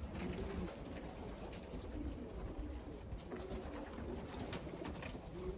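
Racing pigeons cooing in the loft, many short low calls one after another, with a few brief high chirps and several sharp clicks over a low steady rumble.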